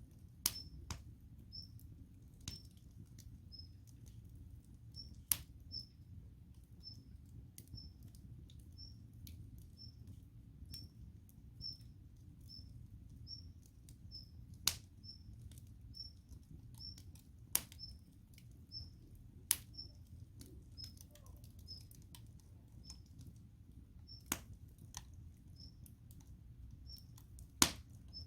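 Wood campfire crackling, with sharp pops of burning logs at irregular intervals over a low steady rumble. A faint high chirp repeats about every two-thirds of a second throughout.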